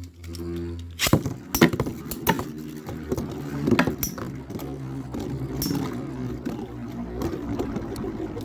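Beyblade spinning tops, Storm Pegasis 105RF and Rock Aries ED145B, clashing in a stadium: a string of sharp clacks starting about a second in and recurring over the next few seconds, over a steady whirring hum of the spinning tops.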